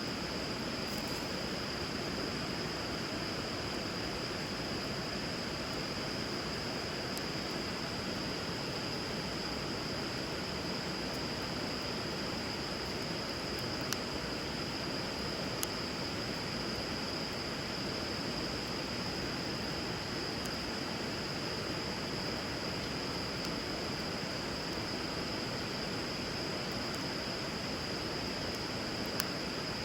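Wood fire burning on a river: three sharp pops of crackling wood, about two-thirds of the way in and near the end, over the steady rush of flowing water, with a constant high-pitched whine above it.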